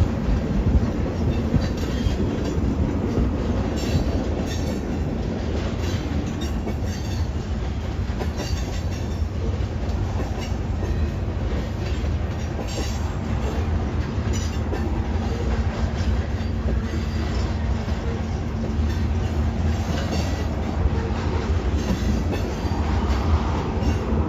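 Union Pacific freight train's tank cars and covered hopper cars rolling past: a steady low rumble with sharp clicks of wheels passing over rail joints.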